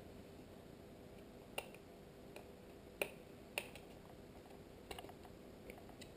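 Small screws being driven into a plastic IP camera housing: a few faint, sharp clicks and taps from the screwdriver and small parts, spaced a second or so apart.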